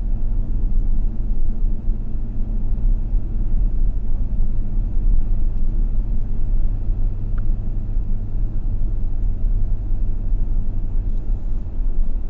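A car driving: a steady low rumble of engine and road noise with a faint hum.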